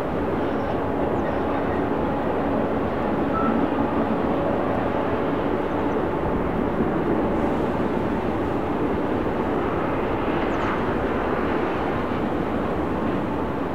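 Freight train running past: a steady, unbroken rumble of locomotives and rolling cars, with a faint engine drone underneath.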